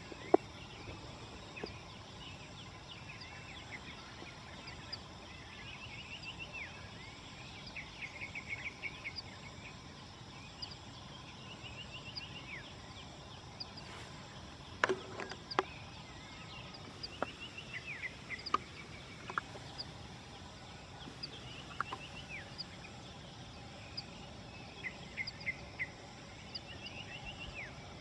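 Wild birds singing on a mountain slope: repeated short trilled phrases come again and again, with a few sharp clicks about halfway through.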